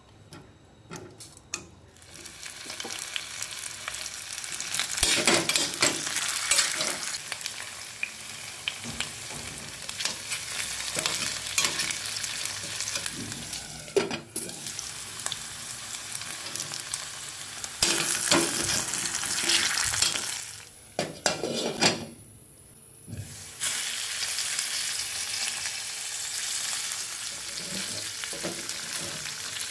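Sliced potatoes sizzling as they fry in hot oil in a stainless steel pan, the sizzle starting about two seconds in as they go into the oil. A spatula stirs and scrapes the pan, giving sharp knocks at times; the sizzle drops away briefly about three quarters of the way through, then comes back steady.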